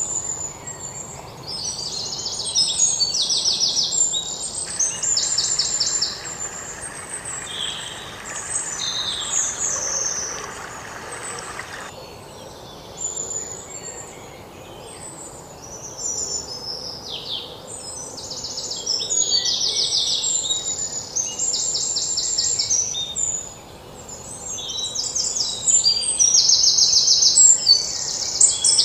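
Several birds chirping and singing, with many short calls and fast trills, some of them loud. A steady hiss sits under them from about five to twelve seconds in.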